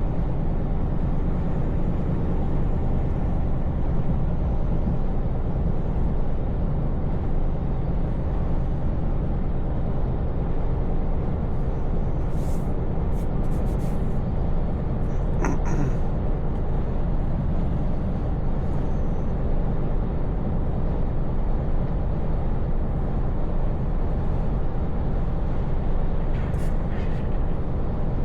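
Scania V8 truck engine running steadily while the truck cruises, a constant low hum over road noise. A few faint short clicks come around the middle and once near the end.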